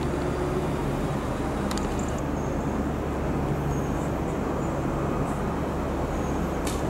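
Merseyrail Class 777 electric train approaching slowly along a curve into the platform, making a steady low running noise with a faint hum. Two short clicks come through, about two seconds in and near the end.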